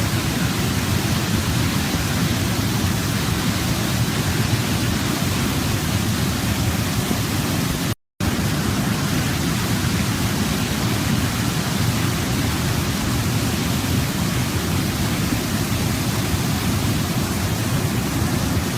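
Waterfall: a steady rush of falling water, with a brief complete cut to silence about eight seconds in.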